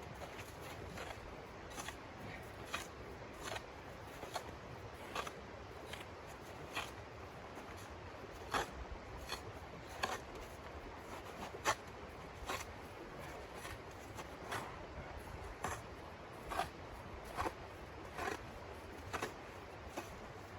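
Footsteps crunching in snow at a steady walking pace, one step a little under every second.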